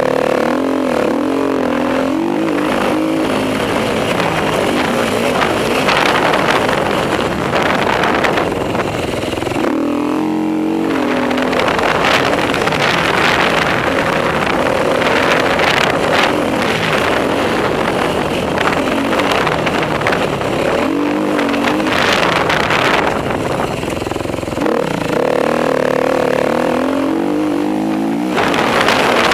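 Enduro motorcycle engine running hard and revving up and down over and over, its pitch rising and falling as the throttle opens and closes, over a steady rush of wind noise.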